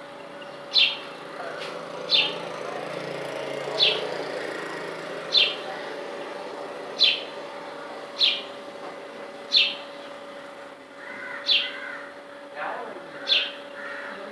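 A bird repeating a short, sharp high call about every one and a half seconds, nine times, with softer chirps between them near the end. A steady low hum runs underneath.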